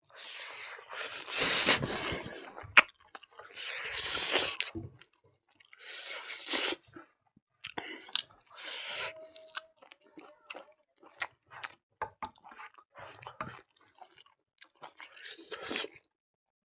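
A person chewing and eating a meal of beef and onion close to the microphone: irregular wet mouth sounds and crunches broken by sharp clicks, heaviest in the first few seconds.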